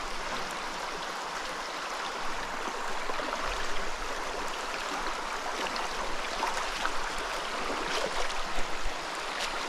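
Small mountain trout stream running over rocks: a steady, even rush of water. A few faint clicks come in the second half.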